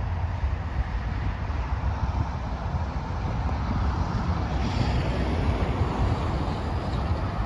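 Steady low rumble of a passing Tri-Rail commuter train, with wind buffeting the microphone.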